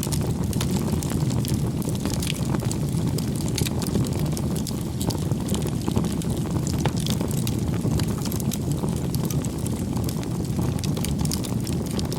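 Wood campfire burning: a steady low rumble of flames with frequent small, sharp crackles and pops from the burning wood.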